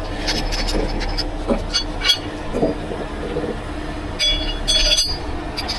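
A heavy truck's diesel engine runs steadily while metal parts clink and squeak, with a cluster of high metallic squeals about four to five seconds in.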